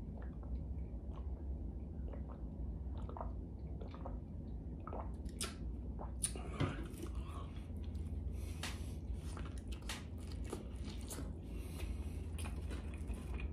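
Close-up mouth sounds of a person chewing and biting food, with short clicks that come thicker from about six seconds in, over a steady low hum.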